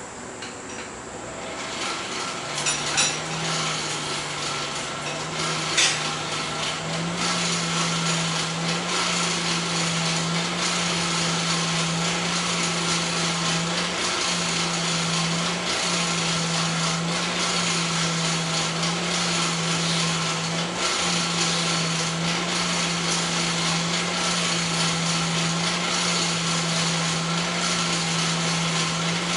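A motor-driven machine coming up to speed and then running steadily: a low hum with a hiss over it, and a couple of sharp clicks as it starts.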